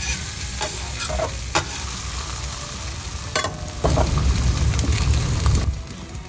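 Smash burger patties and shredded hash browns sizzling on a hot flat-top griddle, with a few sharp clicks and scrapes of a metal spatula on the steel cooktop.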